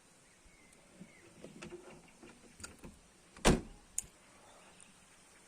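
Light handling clatter and rustling, then a single loud thump about three and a half seconds in, followed by a sharp click half a second later.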